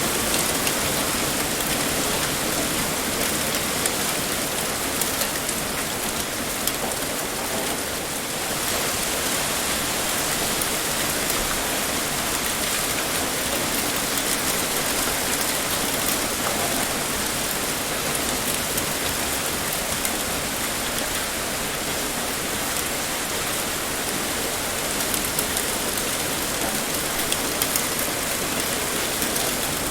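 Heavy rain pouring down steadily, an even hiss of many drops hitting a surface with fine scattered patters.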